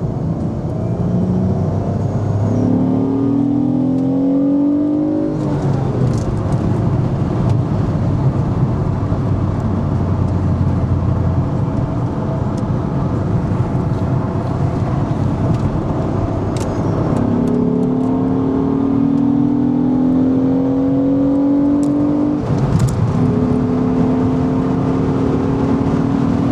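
1999 Ford Contour SVT's 2.5-litre Duratec V6 running at high revs, its pitch climbing slowly and dropping sharply about 5 seconds in and again near the end. The engine is being held up around 4000 rpm, where a bad alternator brings on the battery warning light.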